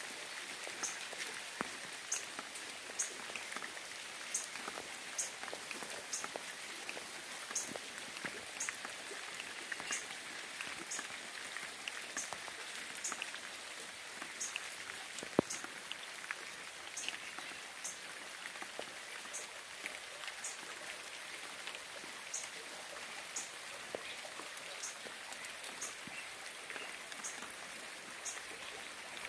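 Steady rain falling, with many individual drops striking close by and one louder drop hit about fifteen seconds in. A short high chirp repeats about once a second over the rain.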